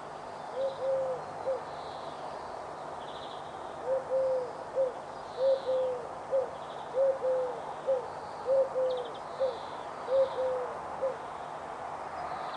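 A bird calls six times in repeated three-note cooing phrases, each a low hoot pair followed by a short note. The phrases come about every one and a half seconds, with a longer pause after the first, over a steady background hiss.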